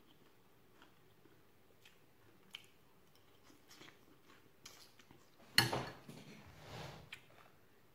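Quiet chewing and small mouth and spoon clicks of someone eating a vegetable curry. About five and a half seconds in there is a louder crackling rustle lasting under a second, followed by a softer one.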